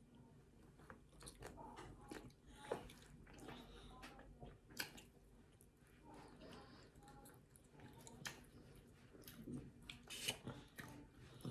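Faint chewing and wet mouth sounds of someone eating soft banana cake, with scattered small clicks.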